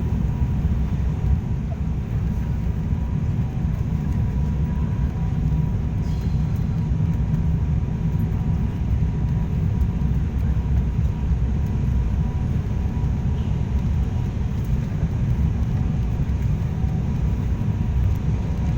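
Passenger aircraft landing: a steady, heavy low rumble of engines and airflow, with a faint steady high tone over it.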